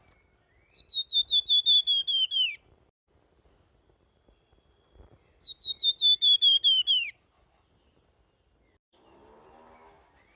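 A flamboyan songbird giving two flute-like whistled phrases. Each is a quick run of about a dozen high notes that slides slowly down in pitch and drops away at the end. A faint low buzz comes near the end.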